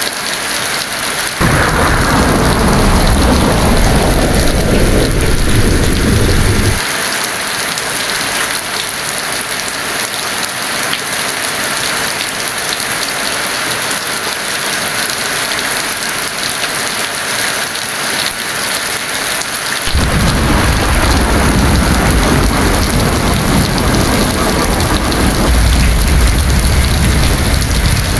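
Heavy rain falling steadily, with two rolls of thunder: one starts suddenly about a second and a half in and cuts off abruptly around seven seconds, and a second begins about twenty seconds in and is still rumbling at the end.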